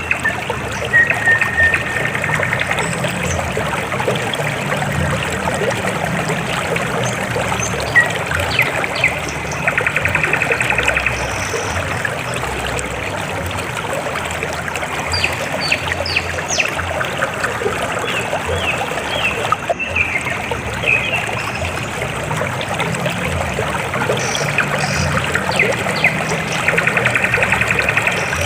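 River water flowing steadily, a continuous rushing and trickling. Twice, about ten seconds in and again near the end, a short trilled chirping sounds above the water.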